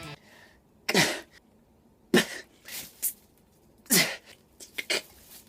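A man's short, forceful grunts and huffs of breath as he strains to push open a stuck battery cover. There are three strong ones, about a second in, near the middle and about four seconds in, with fainter ones between.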